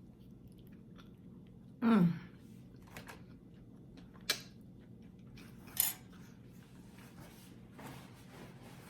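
A person chewing food while eating, with a short vocal sound falling steeply in pitch about two seconds in. A few sharp clicks follow later.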